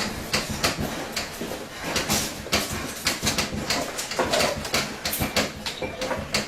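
Rapid, irregular clattering and knocking over a steady rumbling noise.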